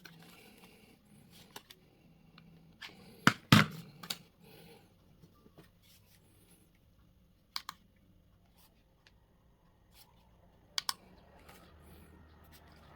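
Sharp plastic clicks and snaps from a clip-on handheld fan being handled. The loudest come as a quick cluster about three seconds in, and single clicks follow about halfway through and near the end, over a faint low hum.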